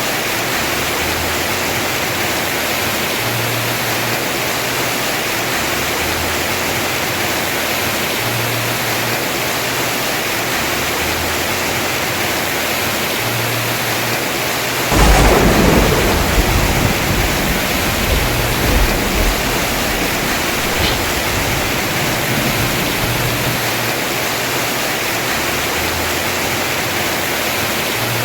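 Heavy rain pouring steadily on a house roof. About halfway through, a sharp thunderclap cracks and rumbles away over several seconds.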